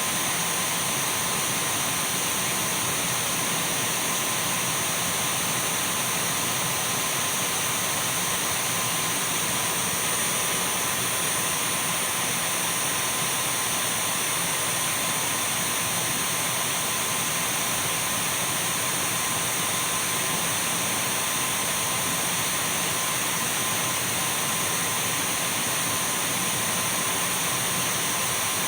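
Dyson V12 cordless stick vacuum cleaner running steadily: an even rushing hiss of airflow with a thin high motor whine held at one pitch, unchanging throughout.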